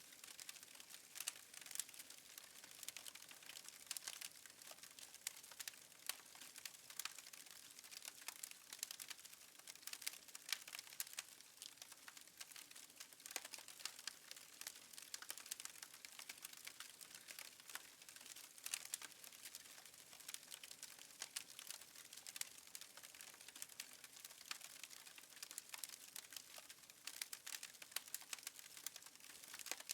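Faint, irregular crackling of a fireplace wood fire: many small sharp pops and snaps over a soft hiss.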